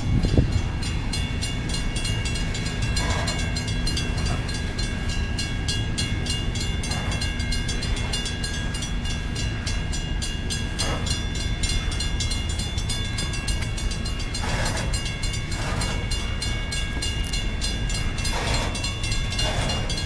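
BNSF empty coal train creeping past at very slow speed: a steady low rumble of the train rolling, with a few thin, steady high-pitched tones above it. A sharp knock sounds right at the start, and short swells of noise come every few seconds.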